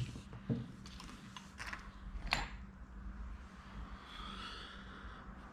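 A few light clicks and taps of hands handling a metal carbide lamp, over a steady low hum, with a faint wavering high tone about four seconds in.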